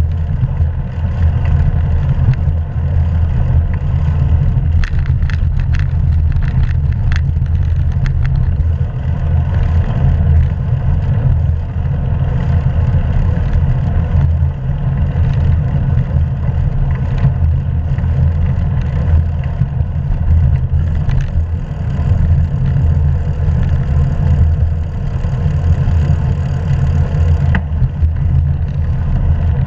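Wind buffeting the microphone of a GoPro camera while cycling at speed: a constant low rumble that swells and dips, with a few light rattling clicks between about five and eight seconds in.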